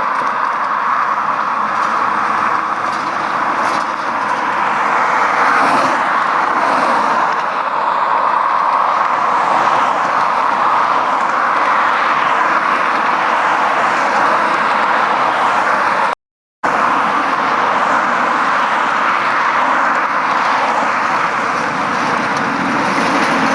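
Steady road traffic noise: vehicle engines and tyre noise, with no single pass standing out. The sound cuts out completely for about half a second about two-thirds of the way through.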